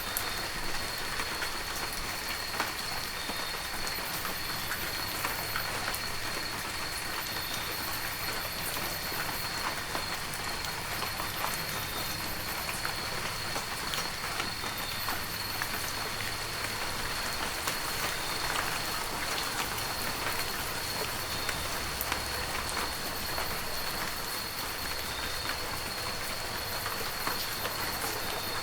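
Heavy rain falling steadily, with many separate drop hits close by and a thin, steady high tone running underneath.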